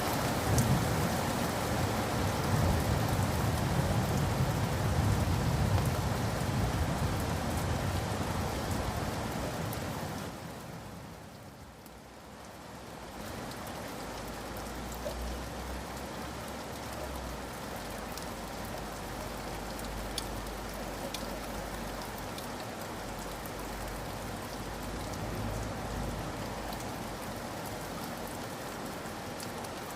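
Rain falling steadily, with scattered drips ticking. It is heavier for the first ten seconds or so, with a low rumble underneath, dips briefly about twelve seconds in, then settles to a lighter, even fall.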